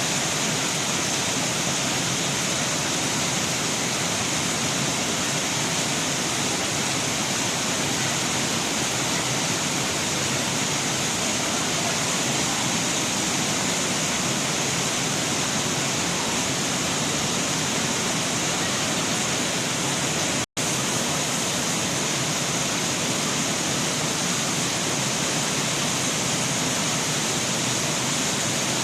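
Fountain jets of a water show pouring and splashing steadily into the basin, a continuous rush of water. The sound drops out for an instant about two-thirds of the way through.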